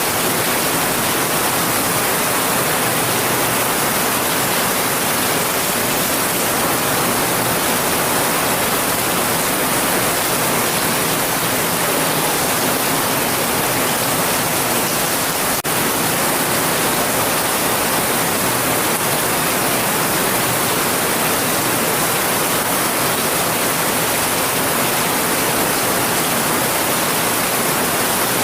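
Steady heavy rain, a dense even hiss with no breaks, and a single faint click just past halfway.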